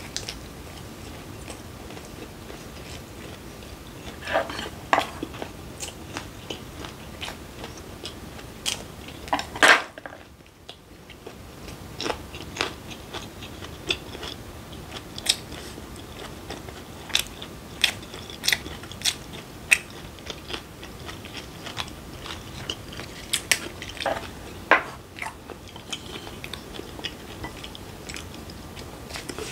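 Close-up chewing of raw fish sashimi wrapped in lettuce and perilla leaves, wet mouth noises with many short crisp clicks and smacks, one louder burst about ten seconds in.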